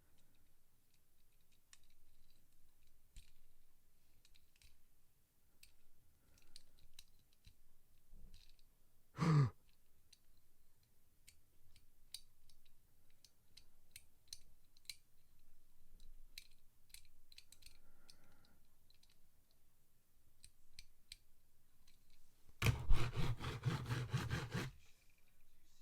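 Faint scattered clicks and taps from a small diecast toy truck being handled and inspected, with a brief sigh about nine seconds in. Near the end comes a loud, rapid clattering rattle lasting about two seconds.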